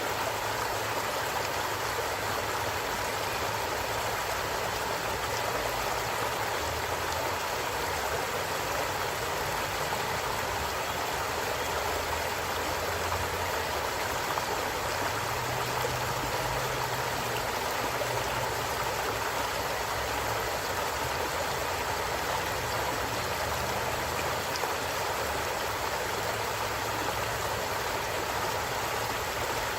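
A creek flowing steadily, its water rushing unbroken over rocks, with a low rumble that shifts underneath.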